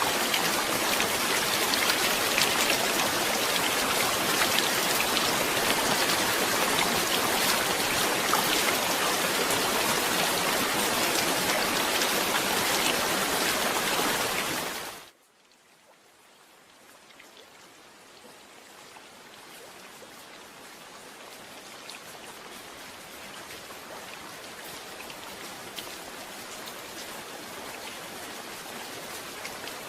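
Steady rain with a dense hiss of drops. About halfway through the rain cuts off abruptly, then comes back softer and slowly grows louder again.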